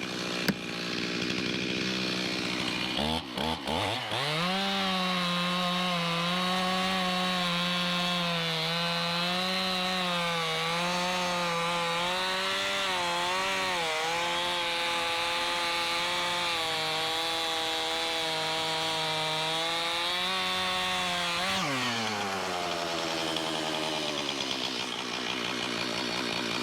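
Stihl chainsaw revved up to full throttle a few seconds in and cutting steadily through a red oak log, its pitch wavering slightly under load, then dropping back to idle near the end. The sawyer thinks the cut sounded like the log has a soft spot in the middle.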